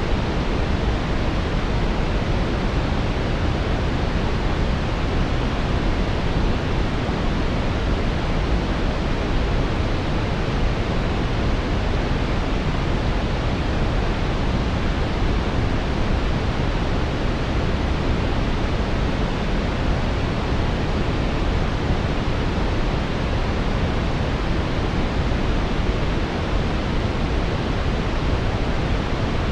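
Brown noise: a steady, even rush of random noise weighted toward the low end, with no tones, events or changes.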